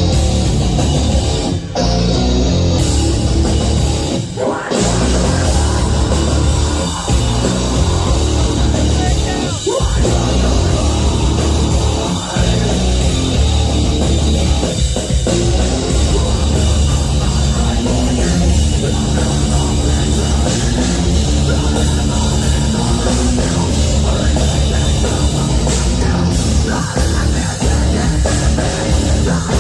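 Live heavy metal band playing loud: distorted guitars, bass and a pounding drum kit, with brief stops in the playing about four and ten seconds in.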